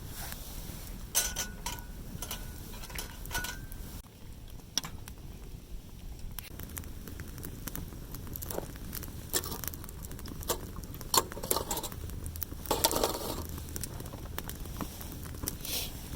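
Campfire crackling, with scattered clicks and clinks of metal camp cookware being handled, including a short ringing clink in the first few seconds and a louder clatter of handling about thirteen seconds in.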